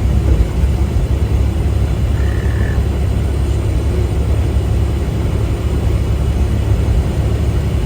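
Steady low drone of a semi-truck driving, engine and road noise heard from inside the cab.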